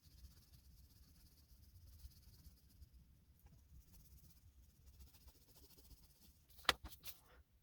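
Oil pastel rubbing on textured paper: a faint, soft scratchy hiss. Near the end come a few sharp clicks or knocks close together.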